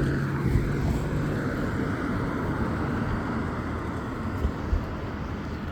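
Meepo Hurricane electric skateboard rolling on pavement: a steady rumble of the honeycomb wheels with occasional low thumps, and a steady low hum that fades out about a second and a half in.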